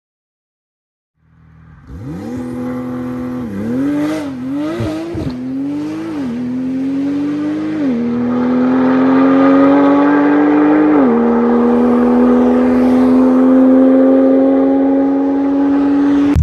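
Porsche 911 Turbo S 3.8-litre twin-turbo flat-six firing up about a second in, then pulling up through the gears. Each rise in engine note ends in a sudden drop at an upshift, and the climbs grow longer with each gear.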